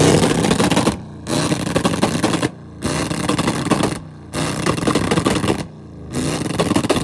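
A revved car engine with rapid exhaust popping and crackling, in five bursts of about a second each with short breaks between them. This is the backfiring that shoots flames from the exhaust.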